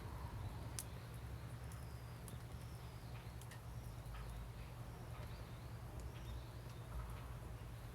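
Wood fire crackling, with irregular sharp pops. Birds chirp with short sliding calls several times in the middle, over a faint low steady hum.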